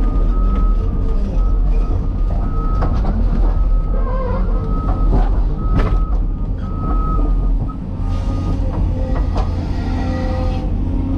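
Cat 336E hydraulic excavator working: its diesel engine runs steadily under load while a high tone comes and goes and scattered knocks and clanks sound over it.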